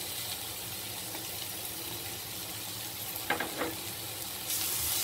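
Chopped onions, curry leaves and green chilli sizzling in hot oil in a frying pan, with crushed ginger and garlic just added. A brief knock about three seconds in, and the sizzle grows louder near the end.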